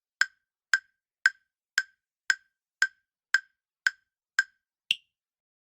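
Countdown-timer tick sound effect: sharp clock-like ticks about two a second, ending in one higher-pitched tick near the end.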